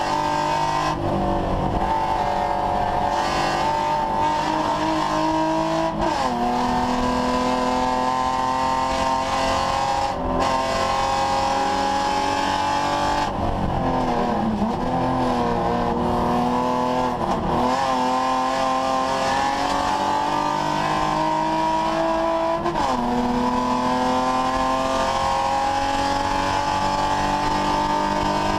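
BMW 3 Series race car's engine at full throttle, heard from inside the stripped cockpit. The note climbs steadily through the gears with sharp drops at the upshifts, about six seconds in and again near the end. It dips and wavers in the middle, as the car brakes and downshifts for a corner.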